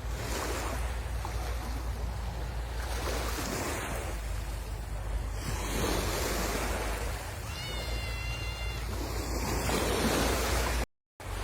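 Sea waves breaking and washing up the shore, a steady surf noise that swells and eases every couple of seconds. About eight seconds in there is a brief high-pitched call, and the sound cuts out for a moment near the end.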